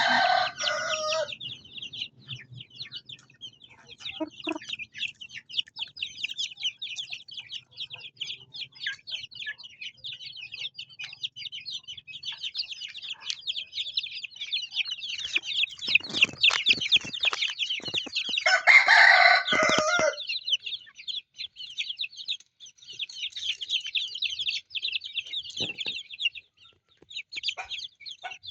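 Many chicks peeping in a dense, high-pitched chorus, with a louder adult chicken call twice: once at the start and once about two-thirds of the way through.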